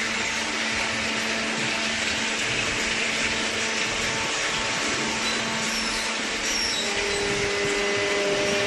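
Waste-paper baling machine running with a steady mechanical drone and hiss; a second, higher tone joins about seven seconds in.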